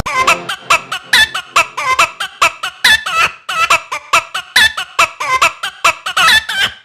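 Chicken clucks and squawks chopped into a quick, even rhythm of about four to five calls a second, with no bass underneath.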